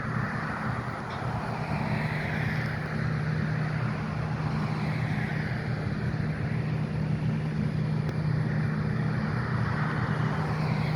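Steady low engine hum, with road traffic noise swelling and fading over it.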